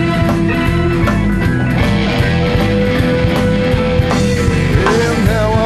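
Blues-rock band playing an instrumental break: steady drums and bass under a lead line that holds one long note, then bends and wavers near the end.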